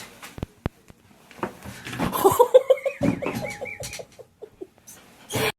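A person laughing in a quick run of short repeated bursts. It is preceded by a couple of sharp clicks, and a brief loud rush of noise comes near the end.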